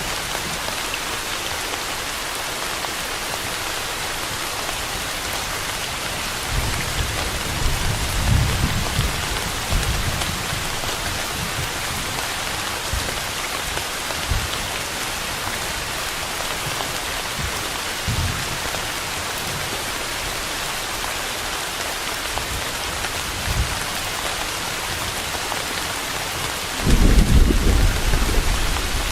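Steady, even rain with low rumbles of thunder: a long rumble from about seven to ten seconds in, a couple of short ones after that, and a louder rumble starting near the end.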